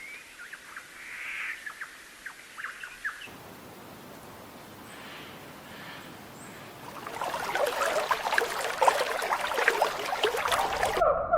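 Birds calling with short chirping notes, then a quiet natural background after a cut. About seven seconds in comes a louder, dense chatter of many short sounds.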